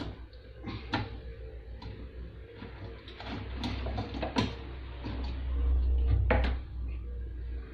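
Scattered clicks and knocks of metal parts and tools being handled at a sewing machine during a repair. A low rumble swells briefly before the loudest knock, about six and a half seconds in.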